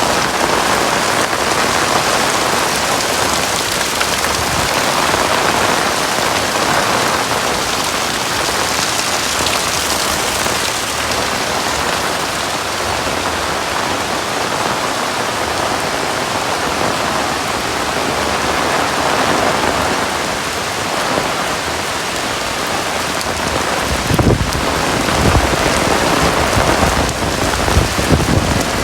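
Heavy rain falling steadily. In the last few seconds irregular low rumbles and thumps come in over it.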